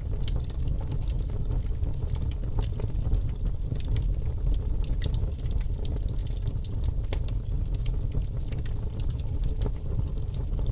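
Wood fire crackling, with many small sharp pops at irregular moments, over a steady deep rumble of snowstorm wind.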